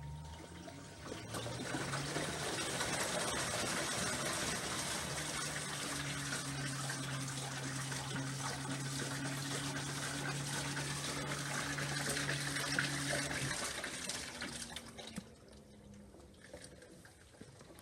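LG 6.5 kg washing machine taking in water: a steady rush of water pouring into the tub, with a low hum through the middle, until the flow stops about fifteen seconds in.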